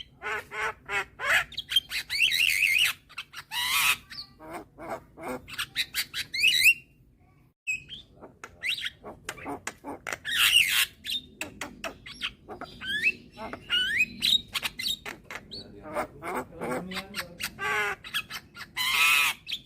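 Young Javan myna (white-eyed jalak kebo) singing a long run of harsh squawks, fast clicking chatter and whistled notes that slide up and down, with a brief pause about seven seconds in.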